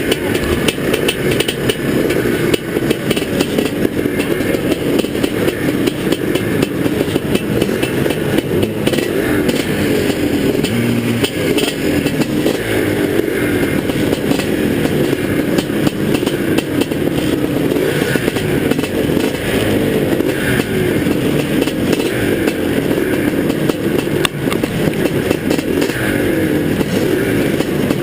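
Motocross dirt bike engine running hard at racing speed, loud and continuous.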